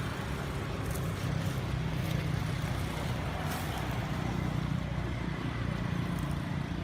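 A steady low rumble, like a motor vehicle's engine running, with a few faint clicks.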